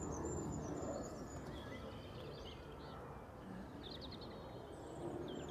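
Faint birds chirping over a steady low outdoor background noise, with a quick trill of repeated notes about four seconds in.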